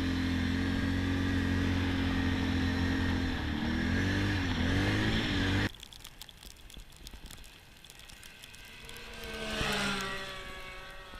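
Motor vehicle engine running steadily, its pitch rising and falling a few times, cutting off abruptly about halfway through. Near the end, an engine passes by, swelling and dropping in pitch as it goes.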